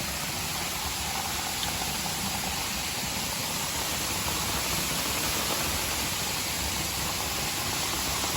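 Steady rush of falling water from a rain-swollen waterfall, an even noise that holds at one level.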